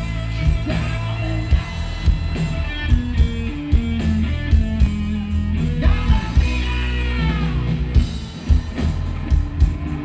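Rock band playing live, guitar to the fore over a steady beat.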